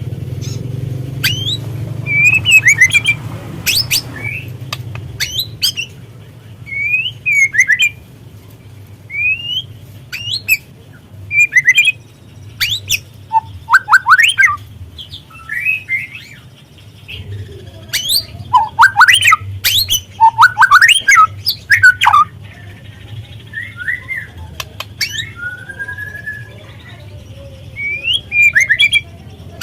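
White-rumped shama (murai batu) giving short whistled phrases mixed with sharp downward-sweeping chirps and clicks, in separate bursts with short pauses between them, over a low steady hum.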